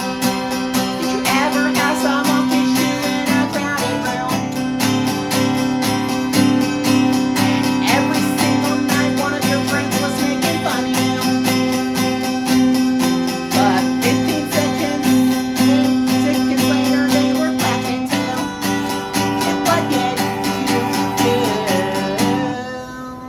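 Acoustic guitar strummed in a steady rhythm over held chords, playing an instrumental passage of a song; the strumming stops just before the end.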